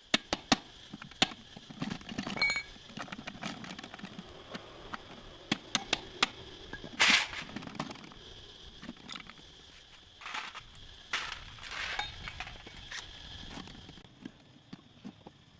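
Metal hand tools and motorbike engine parts clinking and knocking, irregular sharp clicks with a few short scraping noises.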